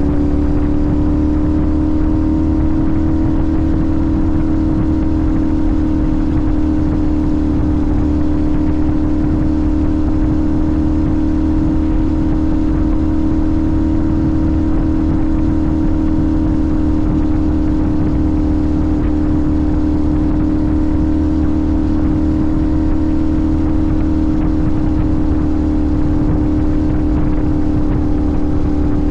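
Sportbike engine holding a steady cruise, its pitch rising slightly at the start and easing a little near the end, over heavy wind rumble on the microphone.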